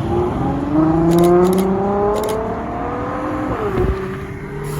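A car accelerating away, its engine note rising steadily for about three and a half seconds and then dropping at an upshift, over a steady lower engine hum.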